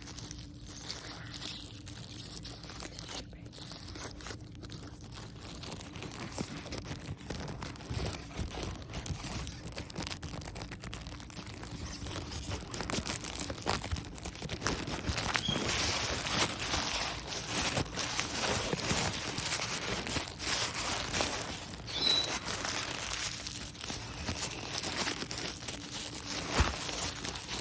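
Packaging bags crinkling and rustling as they are handled close to the microphone: a dense run of small crackles that grows louder about halfway through.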